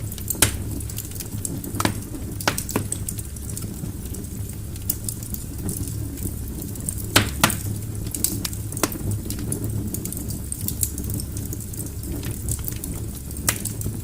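Wood logs burning in a fireplace: a steady low rumble of the flames with irregular crackles and a few sharper pops.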